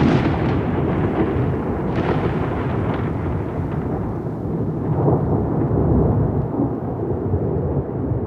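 Rolling thunder: a continuous deep rumble with a sharp crack right at the start and another about two seconds in, swelling again around five seconds.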